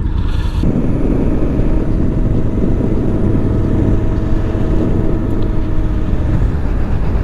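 2017 Honda Africa Twin's parallel-twin engine running steadily under way, mixed with wind and road rumble. The sound thickens a little under a second in and then holds steady.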